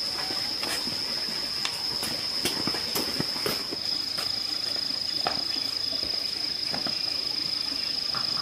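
Steady high-pitched drone of insects, with a run of sharp clicks and knocks in the first half and a few more later.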